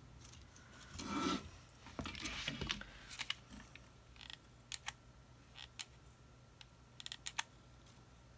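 Handling noise from the craft pieces: rustling and scraping early on, then scattered light clicks and taps, including a quick cluster near the end.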